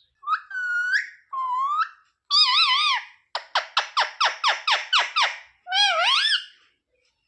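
Pet parrot calling: a few short, wavering, high calls, then a quick run of about ten chattering notes at roughly five a second, and one more wavering call near the end.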